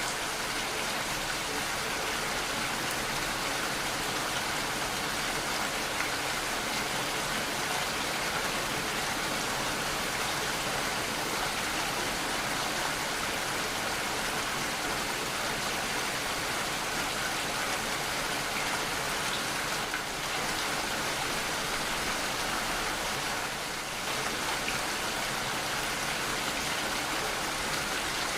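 Steady rainfall, an even hiss of rain falling without a break, with a brief slight dip in level about 23 seconds in.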